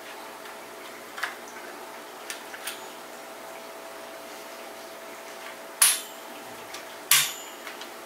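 Plastic push-pins of an Intel stock CPU cooler being pressed into the motherboard's mounting holes: a few light clicks and knocks while the cooler is seated, then two loud, sharp snaps a little over a second apart as the pins lock.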